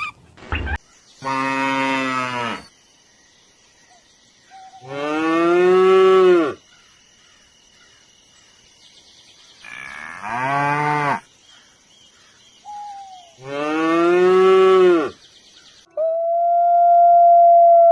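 Cattle mooing: four long, separate moos a few seconds apart. Near the end a long, steady howl begins.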